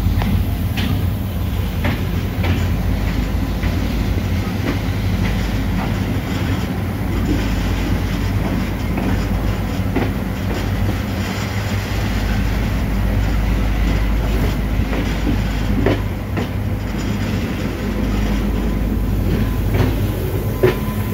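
EMD GL18B diesel locomotive pulling a passenger train, heard from on board just behind it: a steady low engine hum, with the wheels clicking over rail joints now and then.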